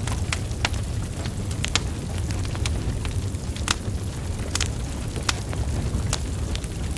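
Burning wood logs crackling: scattered sharp pops and snaps, about one or two a second, over a steady low rumble of flames.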